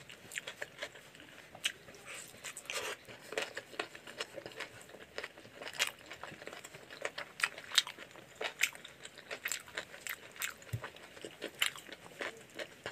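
Close-up eating sounds: wet chewing and smacking of chicken curry and rice, with squishing as curry-soaked rice is mixed by hand on the plate. Many short, irregular clicks and smacks follow one another.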